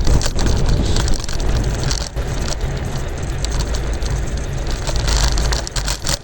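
Kick scooter rolling along at speed: its wheels and deck rattle and clatter over the pavement, with wind rumbling on the microphone.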